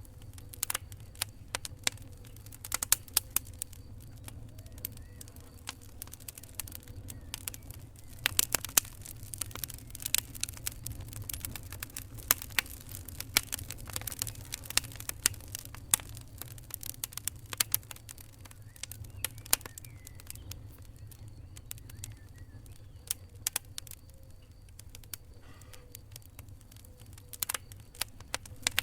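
Wood fire crackling: irregular sharp pops and snaps, thicker in some stretches than others, over a low steady rumble.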